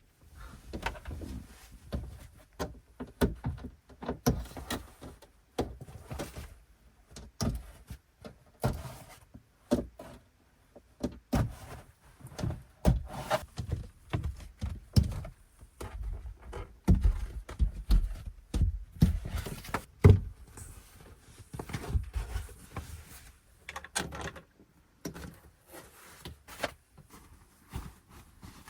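Irregular knocks, clunks and thumps of objects being handled and set down at close range, in a small enclosed space, several a second at the busiest.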